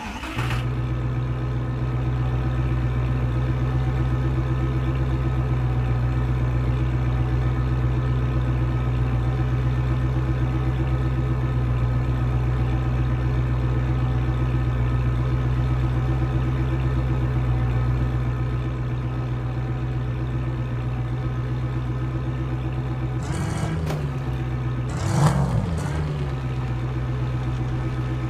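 A muscle car's engine idling steadily, revved briefly twice near the end.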